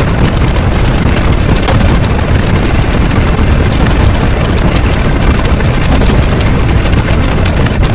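Loud, steady rumbling noise with no pitch, heaviest in the low end, a heavy rumble sound effect.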